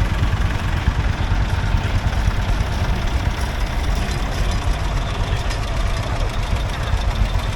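Vintage agricultural tractor engine running steadily at idle close by, with an even low pulse of its firing.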